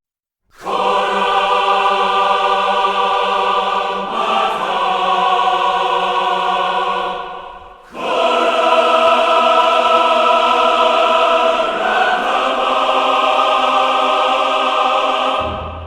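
Music: a choir singing long held chords, each changing to the next about every four seconds, after a brief moment of silence at the start.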